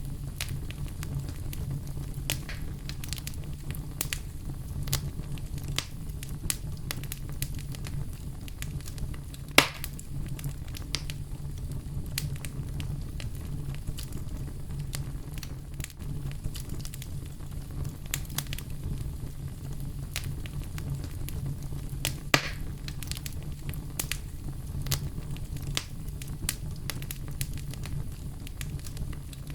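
Campfire crackling over a low steady rumble, with many small pops throughout and two louder snaps, one about a third of the way in and one about three quarters through.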